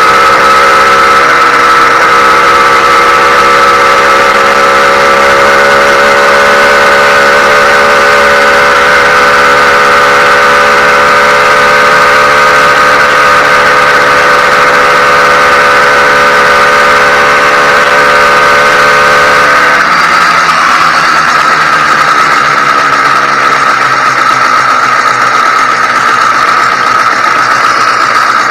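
Freshly ported YD100 two-stroke motorized-bicycle engine running at a high idle during its first break-in run. Its speed creeps up slightly, then drops suddenly to a lower, steady speed about two-thirds of the way through.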